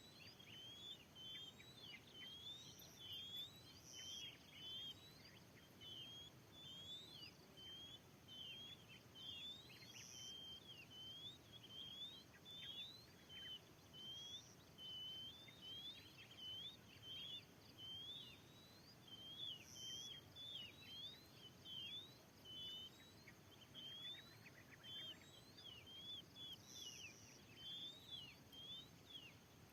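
Oriental magpie-robin calling faintly and without pause: a rapid run of short, sharp chirping notes, about two a second. This is the bird at the centre of a trapping set-up, either the decoy or the wild bird it is meant to draw in.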